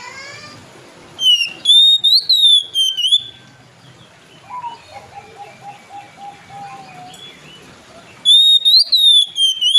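Oriental magpie-robin (kacer) singing a loud, clear whistled phrase twice, about a second in and again near the end, with softer, lower notes between.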